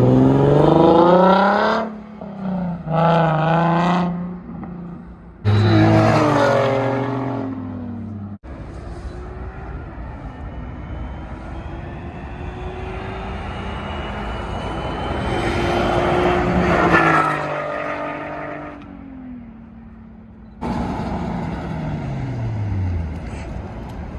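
Nissan 370Z with its muffler and resonator deleted, accelerating hard past the microphone several times. Its V6 exhaust climbs in pitch through the revs, and its pitch drops as it goes by. The passes are short pieces that cut off abruptly, one after another.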